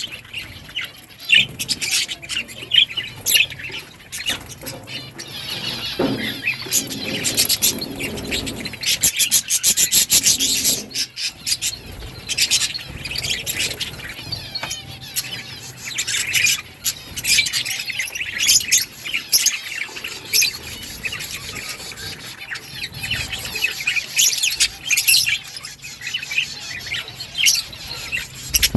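Budgerigars chattering, a dense run of short chirps and warbles that goes on throughout and is busiest a few seconds in.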